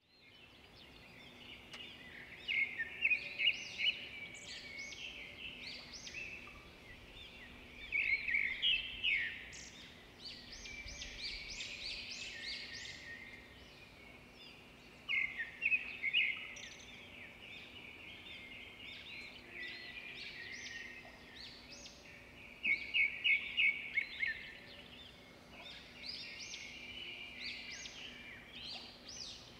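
Birds chirping and trilling continuously, with louder bursts of rapid repeated notes every several seconds, over a faint steady hum.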